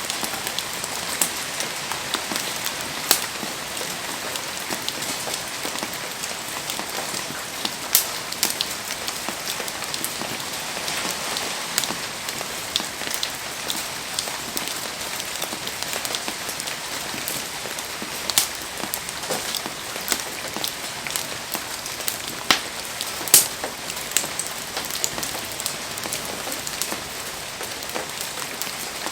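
Heavy rain falling steadily, with scattered sharp pops and clicks throughout, a few louder ones standing out.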